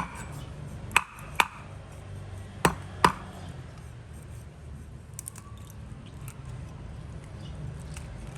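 Sharp knocks or taps, in two pairs about half a second apart, the second pair about a second and a half after the first, followed by faint scattered ticks over a steady low hum.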